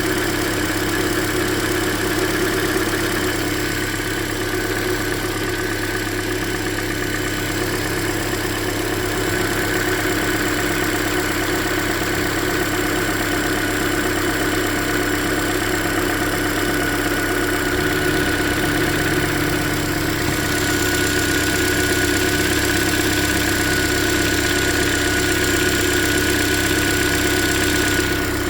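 2013 Hyundai Elantra coupe's 1.8-litre four-cylinder engine idling, heard close over the top of the engine, with a tick that the owner traces to cylinder 3 and suspects may be piston slap rather than the lifters. It gets a little louder about twenty seconds in as the phone moves nearer.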